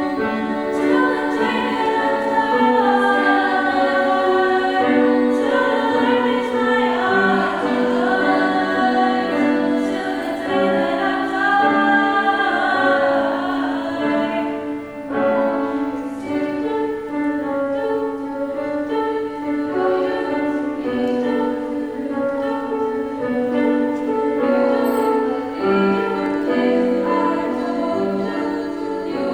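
A vocal ensemble singing a song in close harmony, with female voices, several parts held together. About halfway through the texture thins and the higher parts drop back.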